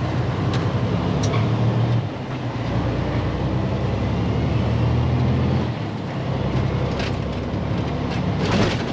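Diesel engine of a day-cab semi truck running under the cab while it moves slowly. Its drone changes about two seconds in and again about six seconds in, with a couple of short sharp sounds near the end.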